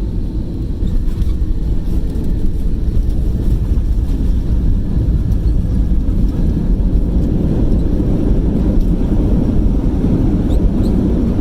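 Airbus A320 cabin noise during the landing: a loud, steady low rumble of engines and airflow that swells a little in the first couple of seconds and then holds.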